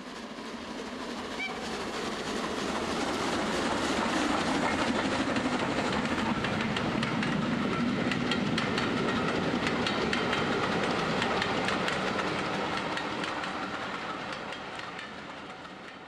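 A train running on the track with a steady wheel-on-rail noise and quick clicking over the rail joints. It grows louder over the first few seconds and fades away toward the end.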